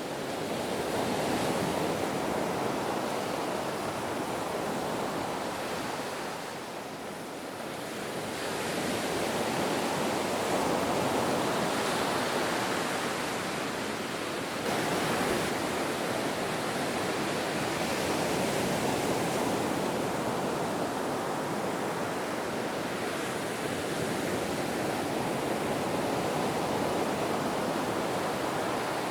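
Ocean waves washing in continuously, the surf swelling and ebbing, with a lull about a quarter of the way through and a fresh surge about halfway.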